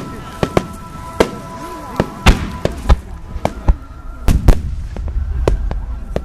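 Aerial fireworks shells bursting in quick succession, about a dozen sharp bangs with a low rumble after the biggest ones, over music playing.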